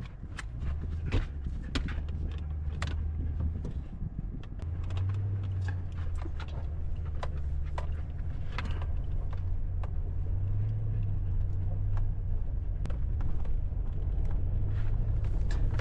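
Truck driving along, a steady low drone of engine and road noise that shifts a little in pitch, with frequent sharp ticks and knocks of rattling throughout.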